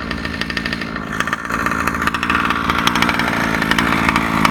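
Small two-stroke gas engine of an HPI Baja 5B, an OBR engine with a new 990 carburettor, running steadily at a fast idle, growing louder from about a second and a half in. The pinion gear has come off, so the engine runs with no drive to the wheels.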